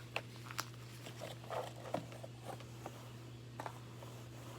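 Faint, scattered light clicks and taps with soft rustling, as of small plastic toys being handled and moved, over a steady low hum.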